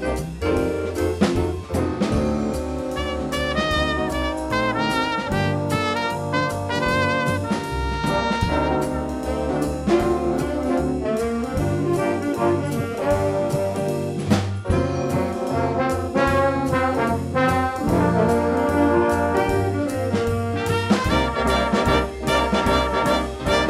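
A student band playing a brass-led instrumental, trumpets and trombones over percussion.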